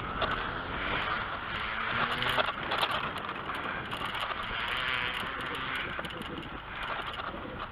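Bicycle being ridden along a track: steady tyre and riding noise with scattered short clicks and rattles.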